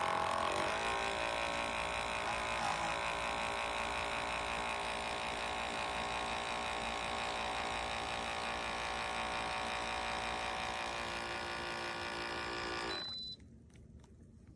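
WACACO portable electric espresso maker's pump buzzing steadily while it pulls a shot from a coffee pod, then cutting off suddenly near the end as the extraction finishes, followed by a brief high tone.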